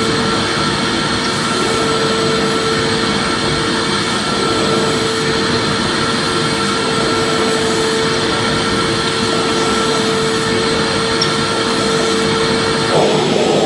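Vacuum cleaner running steadily: even airflow noise with a constant motor hum. A brief flutter in the sound comes near the end.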